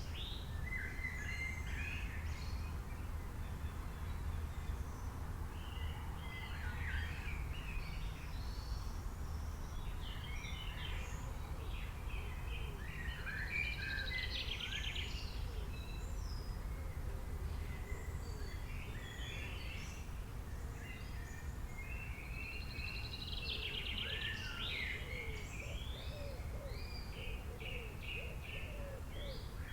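Several songbirds calling and singing, with short chirps and a rapid trill that comes back about every ten seconds, over a steady low background rumble.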